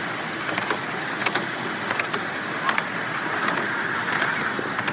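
Riding behind a miniature railway train: the steady running noise of the wheels on the track, with irregular sharp clicks and knocks from the wheels and the carriage.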